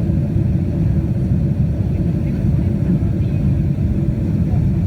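Steady low rumble of a Boeing 767-300ER heard from inside the passenger cabin on arrival, the engines and airframe noise running evenly with a faint steady tone above the rumble.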